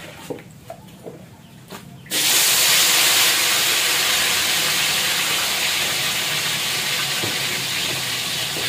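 A few light clinks, then about two seconds in raw cassava pieces hit hot oil in a wok and set off a sudden loud sizzle that carries on steadily, easing slightly as it goes.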